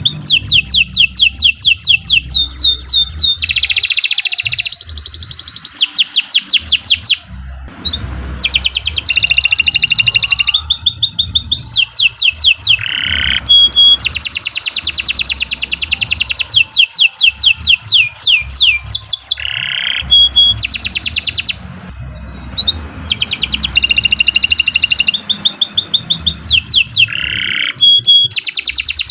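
Domestic canary singing a long, continuous song of fast trills: rapid runs of high repeated notes changing from phrase to phrase, broken by short pauses about seven seconds in and again around twenty-one seconds.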